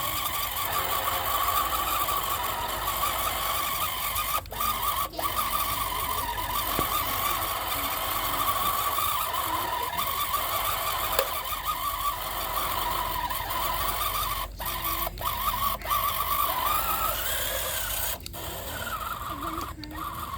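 Small motor of a homemade miniature tractor running with a steady whine whose pitch wavers as it works, cutting out briefly a few times.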